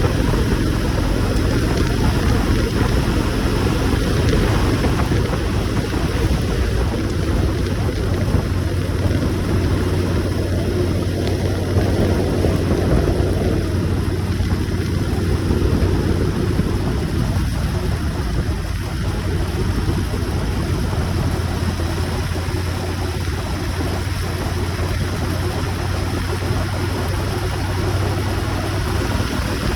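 Motorcycle engine running steadily while riding, a constant low hum under a wash of road and wind noise.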